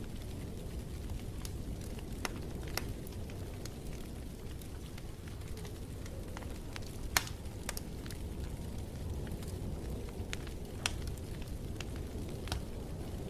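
Wood fire crackling in a fireplace: scattered sharp pops and snaps over a steady low rumble, with one louder pop about seven seconds in.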